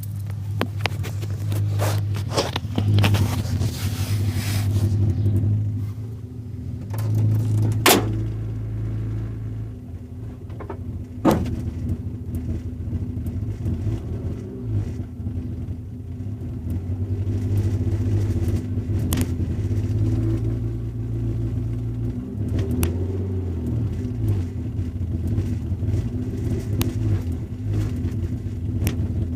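A subwoofer making a weird low hum that swells and fades, broken by sharp pops and crackles, the loudest about 8 and 11 seconds in.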